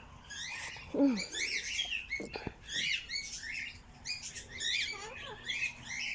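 Aviary birds chirping constantly, many quick high chirps overlapping one another, with one lower, falling call about a second in that is the loudest sound.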